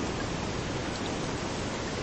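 Steady rain falling with surf washing onto a beach, blending into an even, unbroken hiss.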